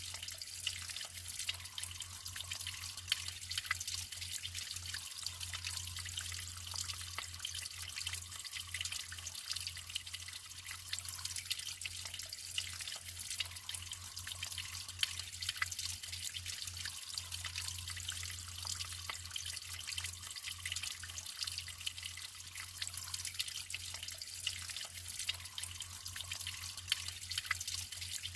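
Natural running water trickling and splashing steadily, with many small drips and droplet splashes, over a steady low hum.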